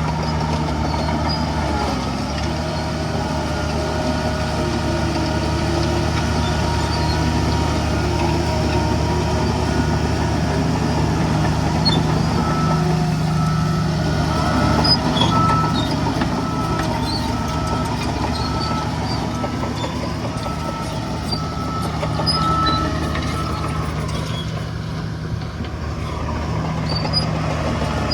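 Heavy diesel earthmoving machinery running steadily. Through the middle stretch a reversing alarm beeps about once a second.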